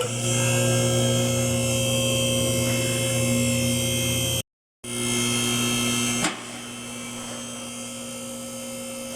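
Small electric motor, like a power tool's, running at a steady whine with a low hum under it. The sound cuts out briefly a little after four seconds, then stops with a click about six seconds in, leaving a fainter steady hum.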